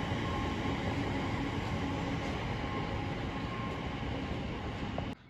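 Passenger train running: a steady rumble and hiss with faint whining tones, cutting off suddenly near the end.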